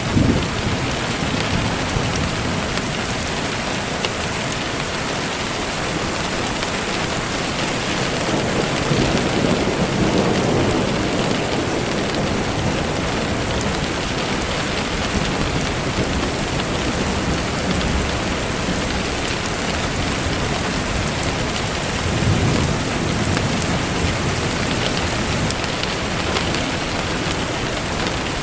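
Steady rain falling, an even hiss, with low rolls of thunder rumbling under it: a short one at the very start, a longer one about a third of the way in, and another about three-quarters through.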